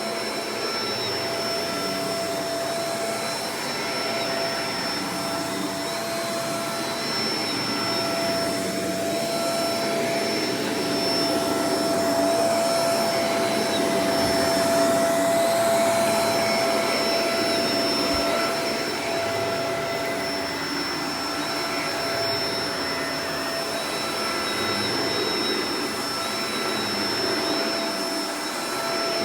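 Shark Professional Powered Lift-Away DLX (NV586) upright vacuum cleaner running steadily, a constant rush of air with a steady motor whine, swelling slightly louder around the middle.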